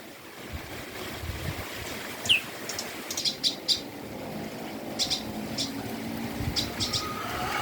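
Wild birds chirping: short, high chirps in quick clusters of two to four, a second or two apart, over a faint low rumble.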